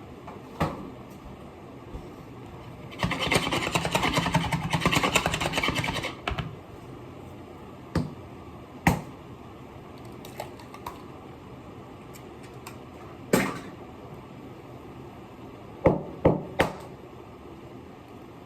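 Kitchen prep sounds: a run of rapid, fast strokes lasting about three seconds, then a few separate sharp knocks of utensils or a knife on a board or dish.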